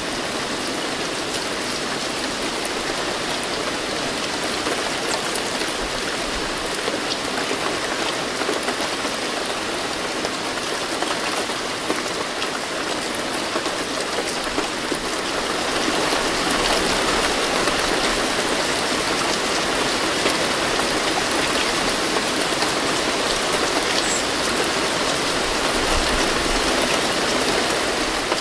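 Steady rain falling, with scattered drops pattering on surfaces; it gets somewhat heavier about halfway through.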